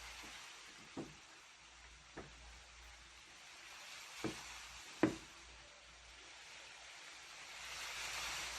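Steady rain hiss with four sharp drip taps in the first half, the last the loudest; the rain swells a little near the end.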